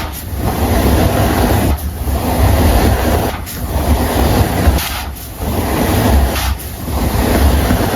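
Close-miked crunching and rustling of dry baking soda being crumbled and squeezed by hand. It comes in repeated strokes about every one and a half seconds, each with a short break before the next.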